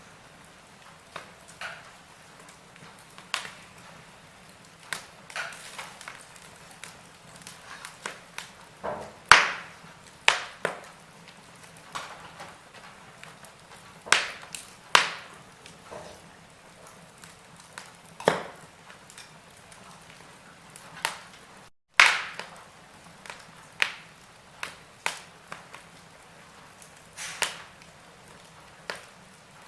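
Wood fire in a fireplace crackling, with irregular sharp pops and snaps over a soft steady hiss. A few pops stand out louder, and the sound drops out for a split second about two-thirds of the way through.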